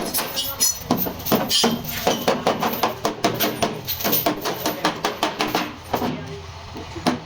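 Quick, irregular metallic taps and clinks, many in a row, easing off near the end.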